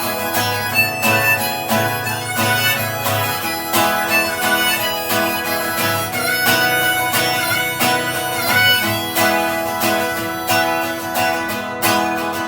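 Acoustic guitar strumming with a harmonica playing the melody, an instrumental break between sung verses of a country-style song.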